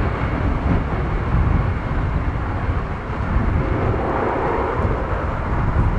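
Jet engines of an Airbus A320-214 (CFM56 turbofans) running at take-off power: a steady deep rumble as the airliner departs.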